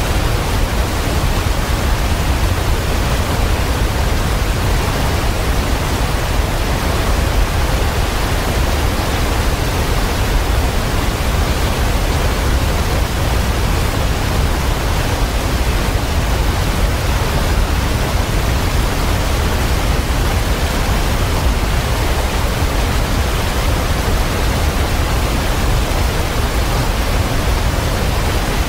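Waterfall: a loud, steady rush of falling water, heaviest in the deep low end, unbroken throughout.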